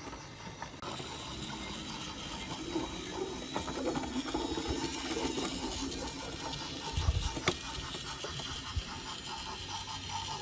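Battery-powered toy train running on wooden track: the small motor and gears whirr steadily and the wheels tick along the track, over trickling water. There is one sharper click about seven seconds in.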